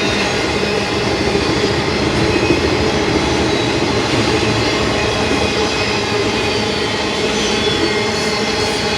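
Cars of an intermodal freight train rolling past: a steady, loud rumble of steel wheels on rail, with a few faint steady tones over it.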